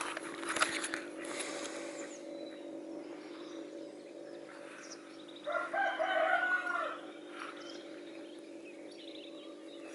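A rooster crows once, about five and a half seconds in, for about a second and a half, over a faint steady hum.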